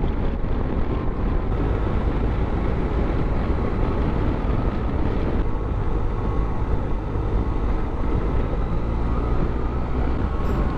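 Motorcycle riding at road speed: steady engine and road noise mixed with wind rush on the microphone.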